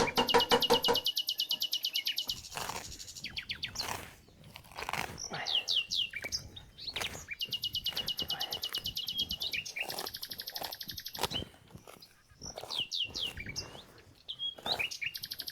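Songbirds singing: several bursts of high, rapid trills and short falling chirps. A lower, rapidly pulsing call fades out about a second in, and there are scattered light clicks or knocks.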